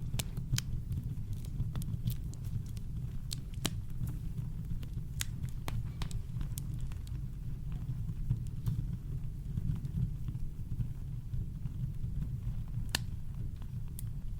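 Wood campfire crackling: irregular sharp pops and snaps over a steady deep brown-noise bed.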